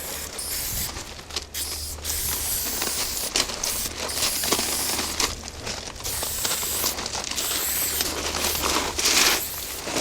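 Aerosol spray-paint can spraying in several long hissing passes, broken by short pauses, with scattered rustling and crackling between them over a steady low hum.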